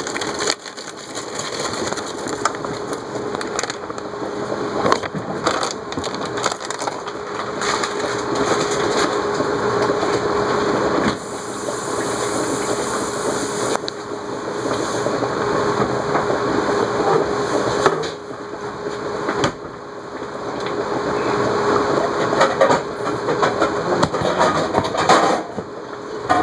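Continuous crackling and rustling as frozen shrimp are emptied into a pot of broccoli, with a faint steady hum underneath.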